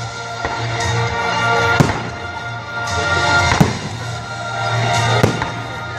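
Aerial fireworks shells bursting with sharp bangs, the three loudest about two, three and a half and five seconds in, over loud music with a steady bass.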